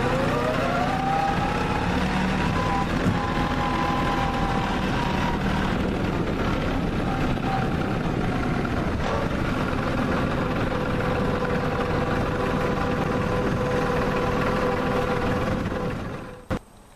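LS G3033 compact tractor's diesel engine running steadily, with a whine that rises in pitch over the first second and a half and then holds. Near the end the engine sound drops away, followed by a single click.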